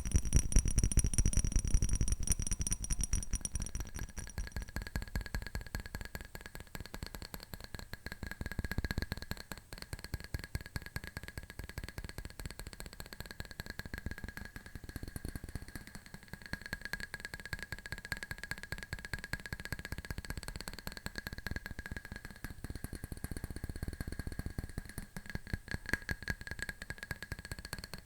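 Fast fingernail tapping: a dense, continuous patter of small clicks on a hard object that rings with a faint steady tone. It is louder and fuller for the first few seconds.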